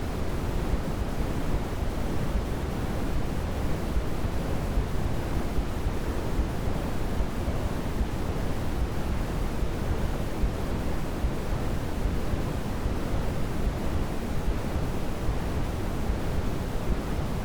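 Steady synthetic white noise for a sleep aid: an even, unbroken rushing hiss, heavier in the low end than the high, without any change.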